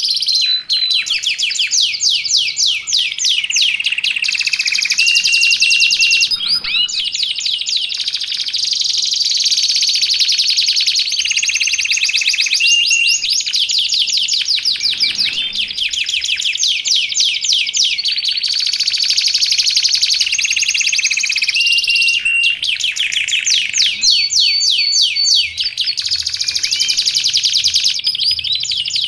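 Domestic canary singing continuously: long, fast rolling trills of rapid repeated notes, broken by short steady whistled notes, with no pauses.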